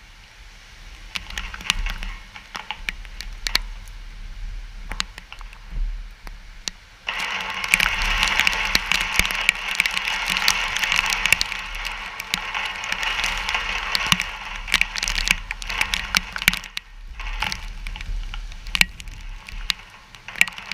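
Hurricane rain-band weather: wind and rain with many sharp crackling clicks. A rushing noise comes in suddenly about seven seconds in, stays loud for several seconds, then eases.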